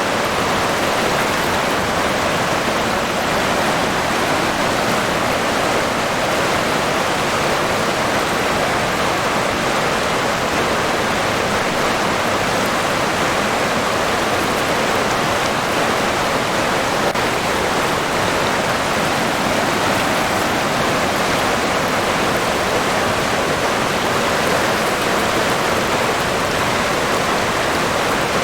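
River water flowing and rushing steadily, an even hiss without breaks or distinct splashes.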